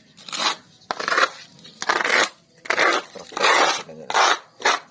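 A hand tool rasping back and forth through the wood of a bonsai: about eight scraping cutting strokes, each about half a second long, at an even pace.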